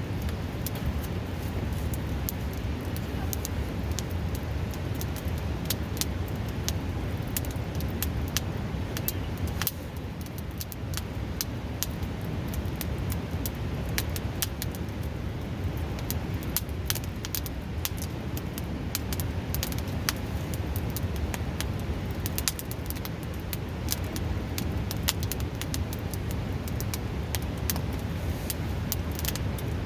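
Wood fire crackling with frequent sharp, irregular pops, over the steady rushing of a nearby river.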